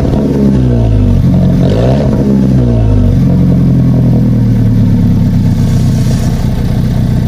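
Alfa Romeo 4C's turbocharged 1.75-litre four-cylinder with sport exhaust, dropping back from a rev at the start, blipped once more about two seconds in, then settling to a steady idle.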